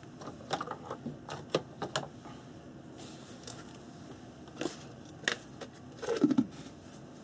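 Scattered light clicks and taps of small objects being handled and set down on a worktable, with a brief low sound that falls in pitch about six seconds in.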